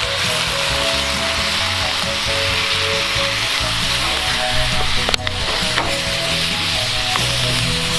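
Food frying and sizzling steadily in a hot pan over a campfire, with a few sharp clicks about five seconds in, under soft background music.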